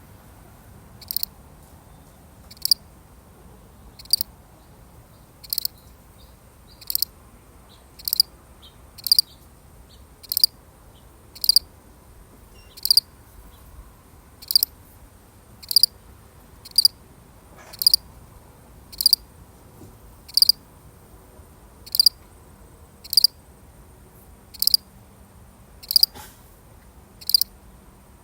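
A single cricket chirping: short chirps repeated at an even pace, about one every second and a half.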